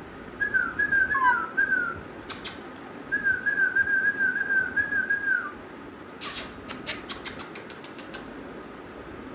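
A parrot whistling two runs of short, slightly falling notes, followed near the end by a quick series of sharp clicks.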